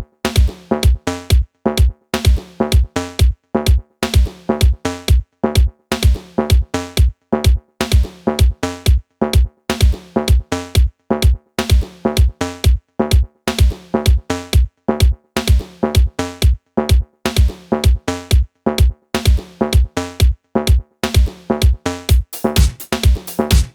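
Electronic dance music played loud through a truck's Kicker car-audio system, with a heavy, repeating bass-drum beat of about two hits a second under synth notes.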